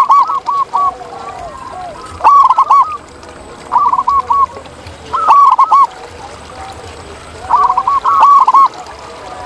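Zebra dove (perkutut) singing: short phrases of quick, rounded cooing notes, repeated every second or two, with fainter, lower cooing notes between the phrases.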